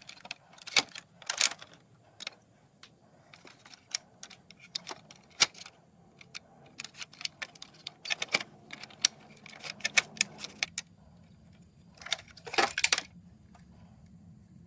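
Irregular clinks, taps and rattles of small metal and plastic parts and tools being handled while taking apart a floor-standing air conditioner, with a louder clattering burst near the end.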